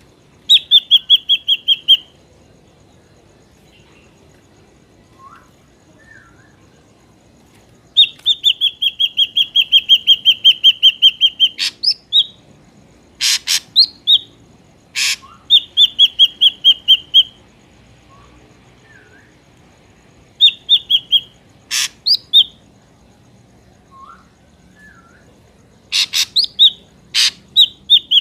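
Ashy drongo calling: loud bursts of rapid, evenly repeated ringing notes lasting one to four seconds, mixed with sharp single notes, in about five bouts separated by pauses. A few faint, low, slurred whistles fall in the gaps.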